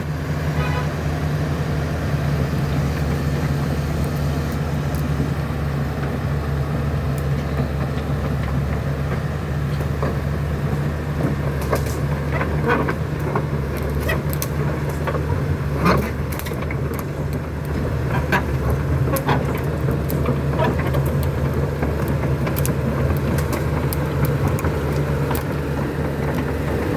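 Diesel engine of a CAT 320C long-reach excavator running steadily, with scattered knocks and clicks, most of them in the middle stretch.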